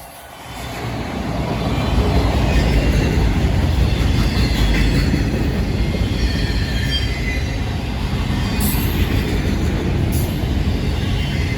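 Freight train rolling past, its rumble building over the first couple of seconds and then holding steady, with thin high squeals of steel wheels on the rails.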